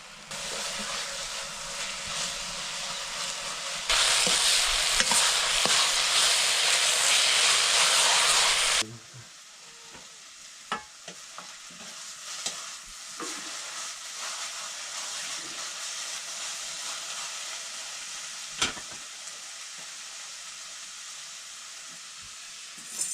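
Food sizzling as it fries in a cooking pan. The sizzle is much louder for about five seconds, from around four seconds in, then cuts off suddenly to a quieter steady sizzle. A few sharp knocks of a stirring utensil on the pan come in the later part.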